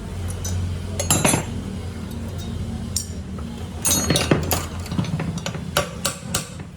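Metal tools and parts clinking and knocking together in a quick, irregular series of sharp clinks, over a steady low hum.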